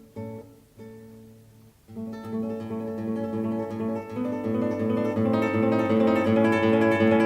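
Background music on acoustic guitar: a few plucked notes, a short pause about a second in, then a faster run of picked notes growing louder.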